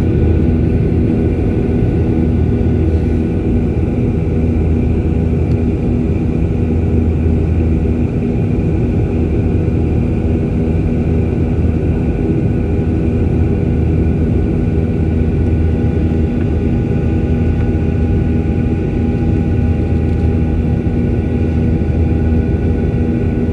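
Airliner engines running steadily: a loud, even low drone with a few steady hum tones over it.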